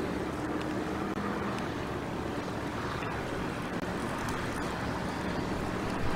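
Steady wind blowing over an outdoor nest-camera microphone, with a faint low hum underneath.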